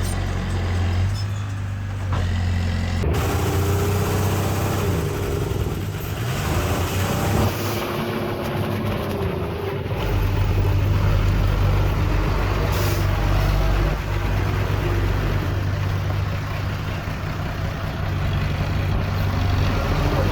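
Diesel engines of heavy earthmoving machinery running steadily, the pitch rising and falling as they rev under load, with an abrupt change in the sound about three seconds in.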